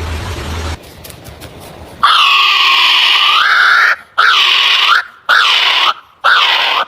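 A bird giving four loud, nasal, pitched calls, each bending down and then swooping up at its end. The first call is the longest; the rest are shorter and come about a second apart.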